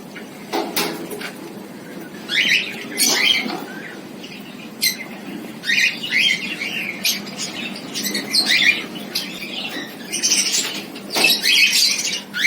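Cockatiels in a breeding aviary calling: many short chirps and squawks, one after another with brief gaps.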